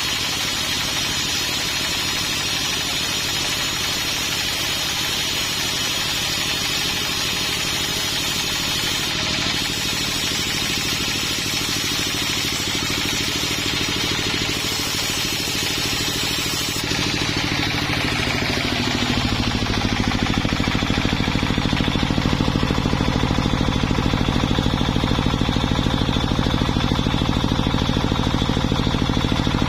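Sawmill engine running steadily. Between about 17 and 19 seconds in it shifts to a louder, deeper steady drone.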